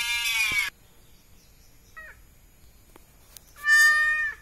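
Kitten meowing in crying calls for its mother: a long loud meow that ends about half a second in, a short faint one near two seconds, and another loud meow near the end.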